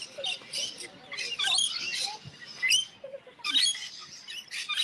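A flock of birds chirping and calling over one another, a busy run of short, high chirps and squeaks with no pause.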